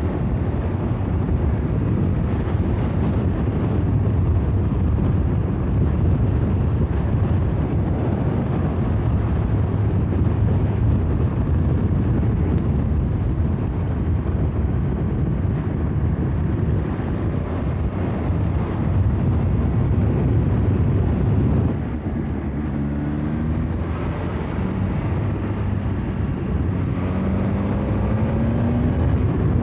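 2021 BMW S1000XR inline-four motorcycle engine running on the road under heavy wind rush. In the last third its note climbs in pitch twice as the bike accelerates through the gears.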